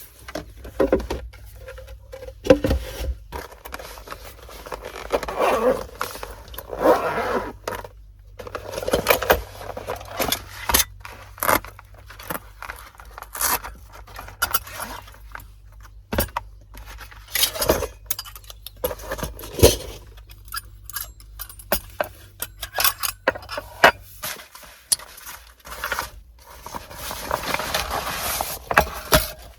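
Repeated clinks, clatters and scrapes of small hard objects being handled, over a low steady hum that stops about 24 seconds in.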